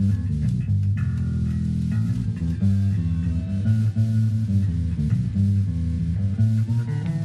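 Electric bass guitar played live through an amplifier, a run of low notes changing pitch every fraction of a second, likely a solo spot with other guitar faintly alongside.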